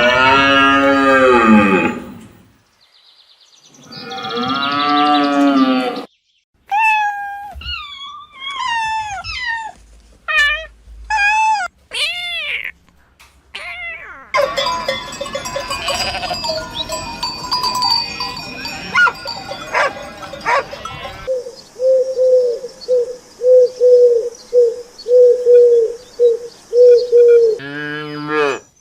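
A series of different animal calls in turn. It opens with two long, loud calls that fall in pitch, then short chirping calls that slide up and down. After a noisy mixed stretch comes a run of short, even calls, about two a second.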